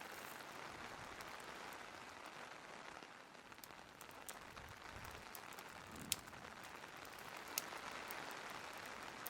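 Steady rain hiss with a few sharp pops scattered through it; the two loudest pops come about six and seven and a half seconds in.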